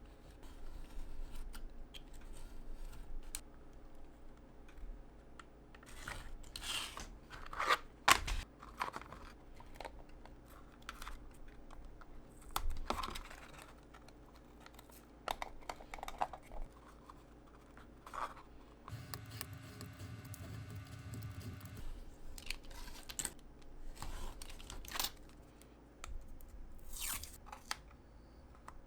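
Hand craft work on small miniature-making materials: scattered rustling, scraping, snipping and tapping strokes. About two-thirds of the way through, a steady mechanical hum runs for about three seconds.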